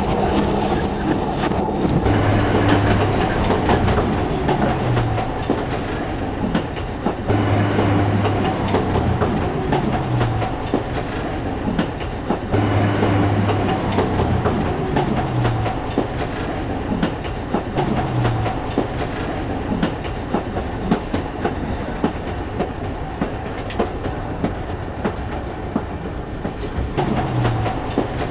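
A diesel railcar of the Chemins de Fer de Provence running along the track, its wheels clicking over the rail joints under a steady rumble, with a low droning note that comes and goes every few seconds.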